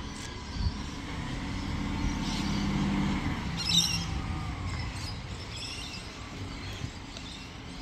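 A heavy vehicle's engine running as it passes, building to about three seconds in and then easing off. A short, sharp high-pitched burst comes just under four seconds in.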